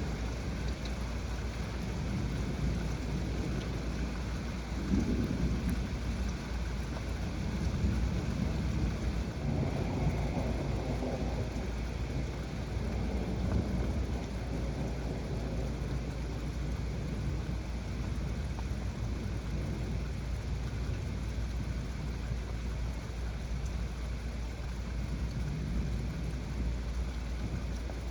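Heavy rain falling steadily during a thunderstorm, with a low rumble of thunder swelling and fading in the first half.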